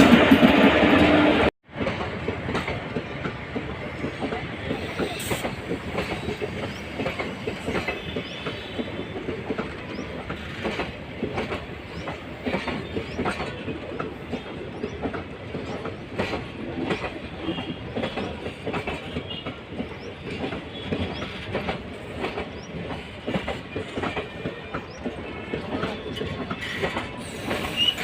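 Passenger train coaches rolling by, wheels clattering steadily over the rail joints with faint wheel squeal. A louder passage in the first second and a half cuts off abruptly.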